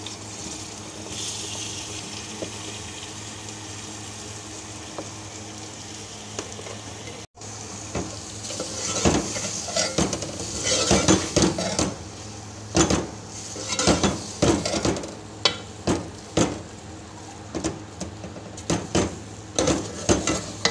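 Minced mutton and potatoes sizzling in oil in a cooking pot. From about eight seconds in, a spoon stirring the potatoes through the mince clanks and scrapes against the pot again and again over the sizzle.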